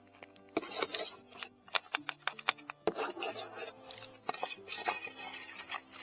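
Gravelly dirt scraped and crunched in irregular runs, the sound of soil being dug and shuffled while recovering a metal detector target.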